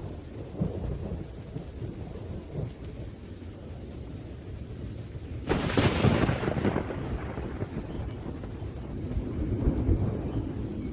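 Thunderstorm: steady rain over low, rolling thunder. About halfway through, a sudden sharp thunderclap fades back into rumbling. The rumble swells again near the end.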